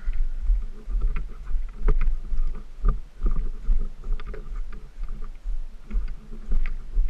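ATV being ridden over a rough trail: a low rumble that surges and fades unevenly, with scattered knocks and rattles.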